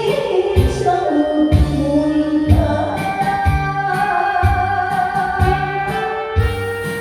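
A song sung over an amplified backing track, with a gliding vocal melody and a steady beat of bass and drum strokes.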